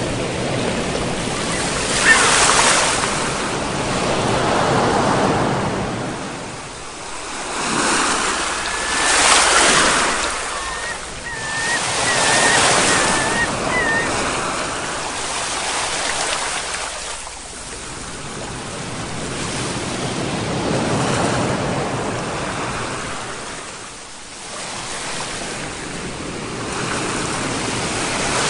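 Ocean waves breaking and washing up a shore, the surf swelling and falling away every few seconds. A faint, high, wavering call comes through for a few seconds about a third of the way in.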